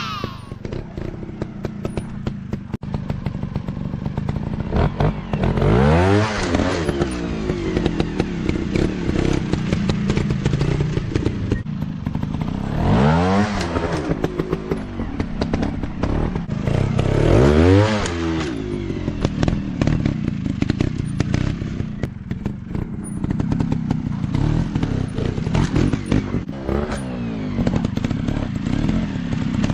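Small dirt-bike engines running and revving. There are three hard rev-ups that rise and fall in pitch, about six, thirteen and eighteen seconds in, with steadier running between them and frequent rattles and knocks throughout.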